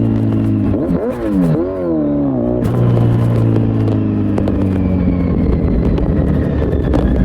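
Kawasaki Z900's inline-four engine breathing through an Akrapovic full exhaust system, running steadily. About a second in, the revs swing up and down a few times, then it settles back to a steady cruise.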